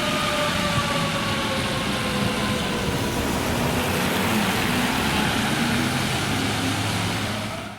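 Emergency vehicle siren holding a steady tone that slowly slides lower and fades out over the first few seconds as the vehicle moves away, over continuous heavy engine and road noise.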